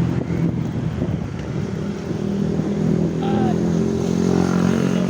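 Vehicle engine running steadily with road noise, a short higher tone briefly heard about three seconds in.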